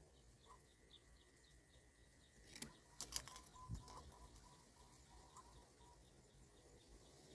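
Faint outdoor ambience: a soft high chirp repeating about three times a second over a thin steady whine. A brief cluster of sharp clicks comes about three seconds in.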